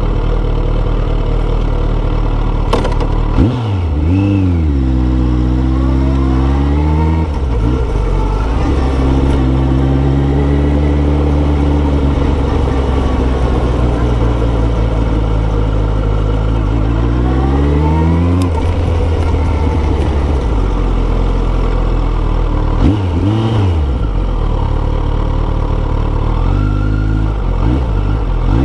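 2017 Kawasaki ZX14R's inline-four engine through a Yoshimura exhaust while riding, mostly holding steady revs. Its pitch climbs a few times as it accelerates, and there are quick brief rises and falls in revs about four seconds in and again about two-thirds of the way through.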